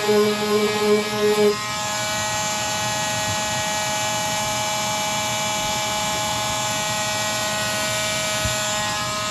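Electric power sander running at a steady speed on motorcycle bodywork, a constant whirring drone with hiss, starting about a second and a half in after a few seconds of plucked-guitar background music.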